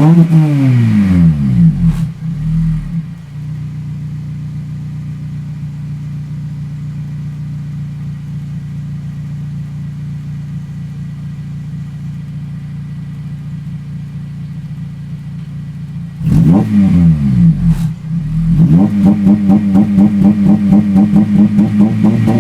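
Honda Civic Type R FN2's 2.0-litre four-cylinder i-VTEC engine through a 3-inch TDI North exhaust. A rev drops back to a steady idle at the start, and the idle holds for about thirteen seconds. Two quick throttle blips follow about three-quarters of the way in, then a louder, steady sound with a regular pulse takes over near the end.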